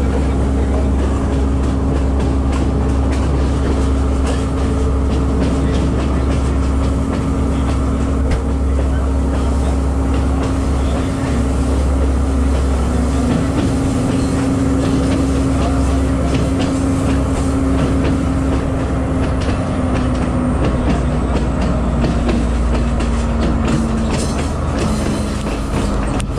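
S14 class diesel multiple unit running steadily on the climb to Pattipola summit, heard from an open door: a constant low rumble of wheels and engine under a humming engine note. The note sinks slightly over the last several seconds.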